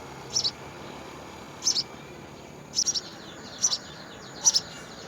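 House sparrow chirping: five short, high double chirps, roughly one a second.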